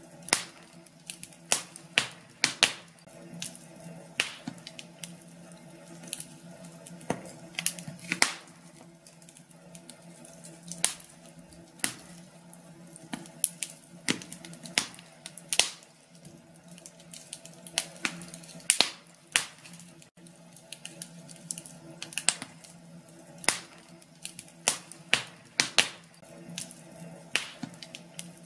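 Wood fire burning in a fireplace, crackling and popping with sharp irregular snaps, several close together at times, over a faint steady hum.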